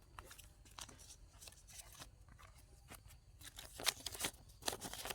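Paper banknotes rustling and crinkling as they are counted through by hand, in a quick run of short crisp rustles that grow louder and busier about three and a half seconds in.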